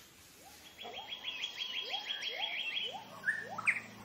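Rainforest birds calling: a fast run of high repeated notes, about six a second, over a slower series of short rising calls, with a couple of louder calls near the end.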